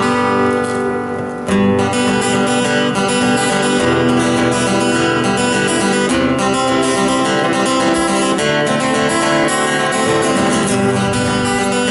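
Acoustic guitar strummed, playing a song's instrumental introduction, with a fresh chord struck about a second and a half in.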